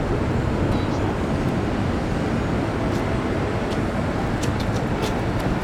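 Steady rumbling roar of vehicle noise, with a few faint clicks near the end.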